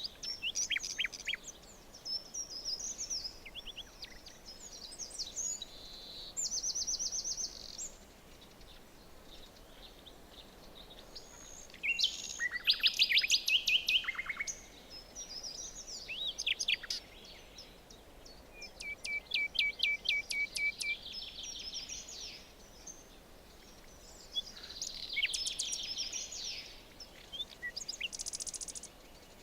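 Several songbirds singing and calling in a forest over a faint, steady background hiss. Calls overlap throughout, and the loudest is a rapid trill of evenly spaced notes about twelve seconds in.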